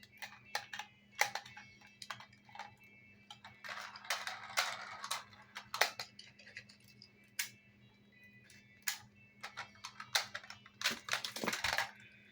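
Toy construction vehicles being handled: an irregular string of light clicks and knocks, with a longer rattle a few seconds in.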